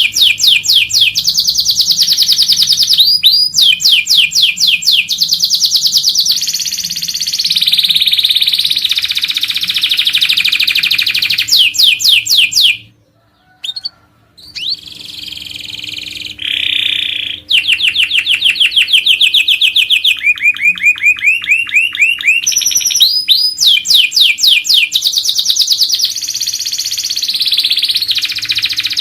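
Domestic canary singing a long, varied song of fast trills and rapid sweeping whistled notes, broken by a short pause about halfway through.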